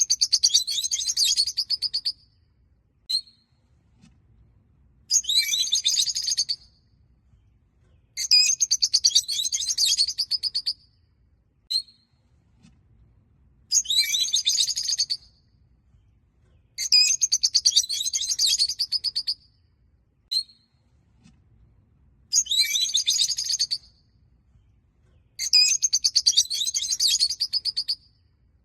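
Peach-faced lovebirds chattering in repeated bouts of rapid, high chirps, each bout a couple of seconds long, with single short chirps in the pauses between.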